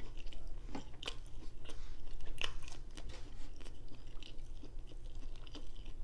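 A person chewing a mouthful of crispy fried cod fish sandwich with her mouth closed: irregular crunches and small clicks of chewing.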